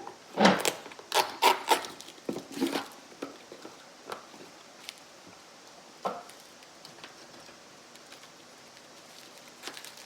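A quick run of sharp clicks and taps, with the densest cluster in the first three seconds, then a few isolated ticks: small hard objects being handled.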